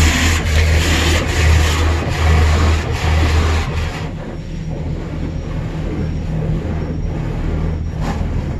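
Automatic car wash equipment running, heard from inside the car. A heavy pulsing low rumble with hiss drops to a quieter steady rush about four seconds in.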